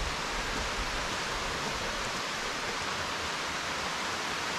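Steady rush of falling and flowing water from nearby rainforest waterfalls and river, an even hiss with no breaks.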